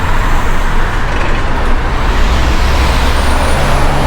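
Steady, loud wind buffeting on the action camera's microphone while riding a bicycle, a deep rumbling rush.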